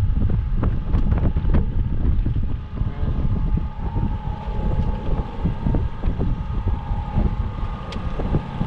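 Wind buffeting the microphone on an open boat, a gusty low rumble with scattered small knocks. A faint steady whine joins about halfway through.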